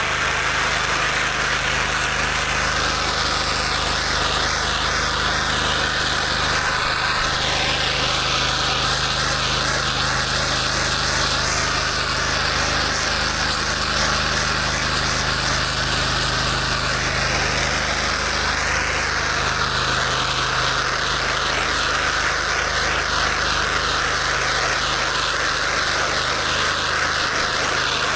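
Gas-powered pressure washer engine running steadily under load, with the hiss of high-pressure water spraying over it.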